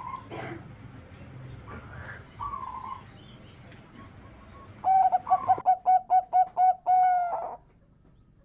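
Zebra dove (perkutut) singing. Fainter calls come first, then about five seconds in a loud cooing song: a long note, a quick run of short notes, and a closing long note.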